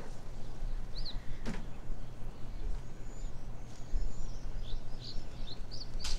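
Small birds giving short, high chirps and whistles here and there, with two sharp clicks, over a steady low rumble.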